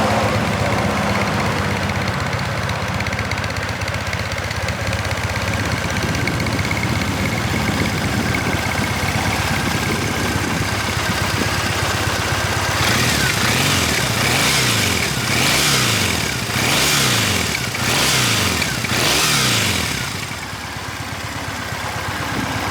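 2010 Triumph Bonneville's 865 cc parallel-twin engine through its stock exhaust, idling steadily. After about 13 seconds it is revved in a series of about six quick throttle blips, each rising and falling in pitch, then it settles back to idle.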